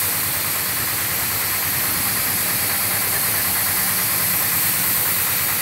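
Compressed-air paint spray gun spraying a coat onto a car body panel: a steady, loud hiss that stops just after the end. A steady low motor hum runs underneath.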